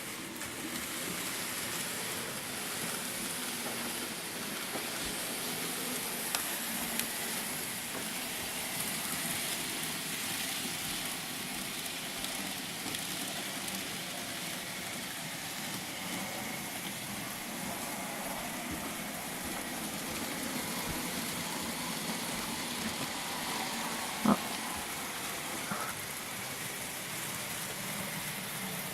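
N gauge model train running on its track: a steady whirring rattle of the small motor and wheels, with a few sharp clicks, the loudest about 24 seconds in.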